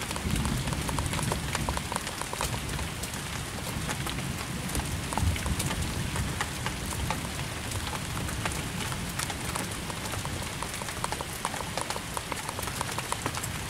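Steady rain falling, with many separate drops striking close by as sharp little clicks over the hiss.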